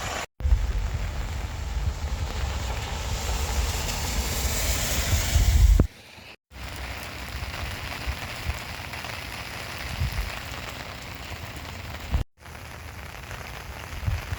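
Steady heavy rain falling on pavement and puddles, with wind buffeting the microphone through the first half. The sound breaks off sharply twice between clips.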